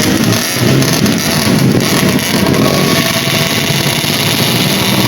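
Dirt bike engines running and revving, loud and continuous.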